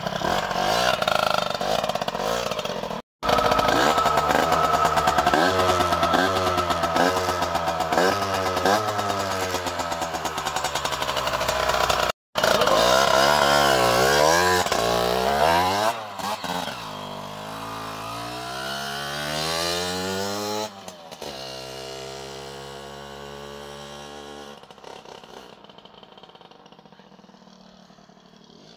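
Derbi Senda 50 cc two-stroke single engine revved hard again and again, its pitch rising and falling. Then the bike pulls away and the engine note fades steadily into the distance.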